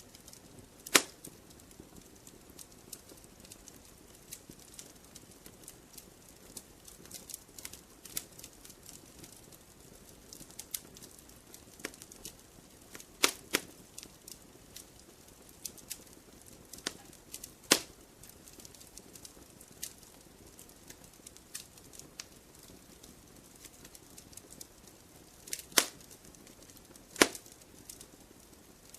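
Wood fire crackling: scattered small ticks and snaps over a faint low hiss, with about half a dozen louder, sharper pops spread through.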